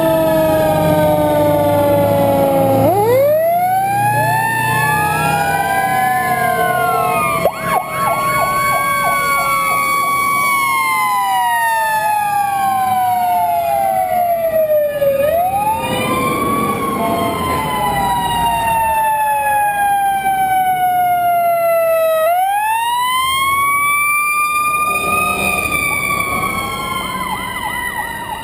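Several fire truck sirens sounding together, each winding up quickly and then falling slowly in pitch, overlapping. Fresh wind-ups come about three seconds in and again near the end, over a low engine rumble.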